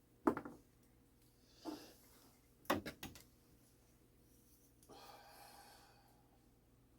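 A few small, sharp knocks of clock parts or tools being handled and set down on a workbench, with a quick run of three about three seconds in, then a short rustle about five seconds in.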